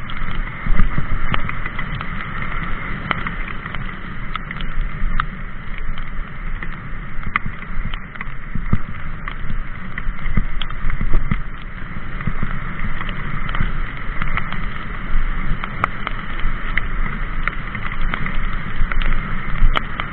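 Mountain bike being ridden over rough ground: a steady rumble and rush with frequent knocks and rattles from the bike throughout.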